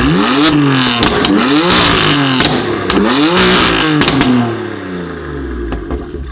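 BMW M4 F82's twin-turbo straight-six through a Milltek exhaust, revved hard several times: the engine pitch rises and falls about three times, with sharp pops and cracks from the exhaust, then dies away near the end.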